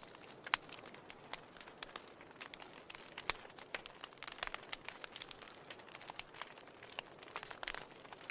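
Wood fire crackling in a fireplace: a steady hiss with irregular sharp pops and snaps of burning logs, a louder pop about half a second in and another just past the three-second mark.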